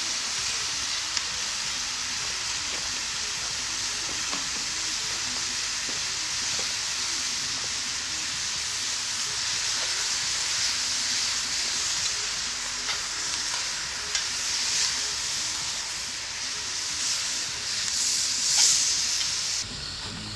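Chicken, onions, peppers and salsa frying in a little peanut oil in a Dutch oven over a campfire, with a steady sizzle and a few light clicks. The sizzle drops away shortly before the end.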